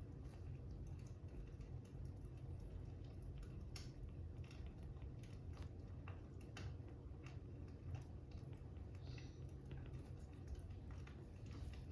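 Fire crackling: a steady low rumble with scattered sharp crackles and pops, one every second or so.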